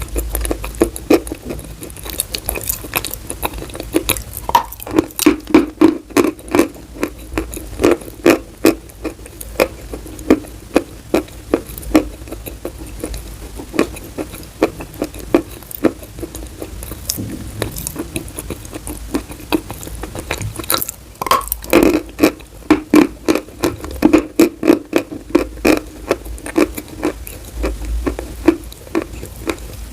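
Chalk being bitten and chewed close up: many sharp, irregular crunches, several a second, with a sparser stretch in the middle.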